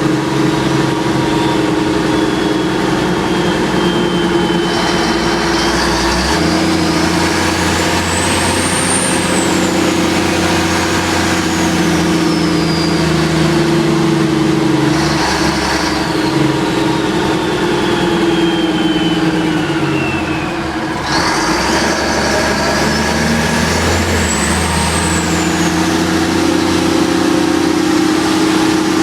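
Ladder fire truck's engine running loud and steady, heard from the open cab, while a siren winds up in pitch and slowly falls away, twice.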